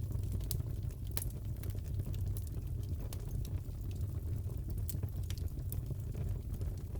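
Crackling wood fire in a fireplace: a steady low rumble of burning with irregular sharp pops and snaps, one or two a second.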